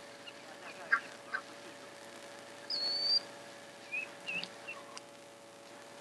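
Bird calls: a clear, even whistled note twice, about three seconds apart, and a few short chirps around four seconds in, over a steady low hum.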